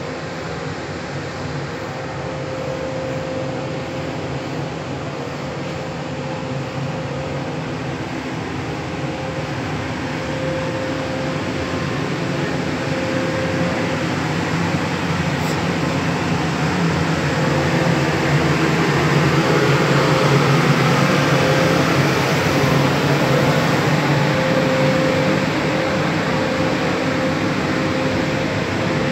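Freight train rolling slowly past at close range: the rumble of wagons gives way to the locomotive's cooling fans and a steady whine, growing louder as the locomotive draws level.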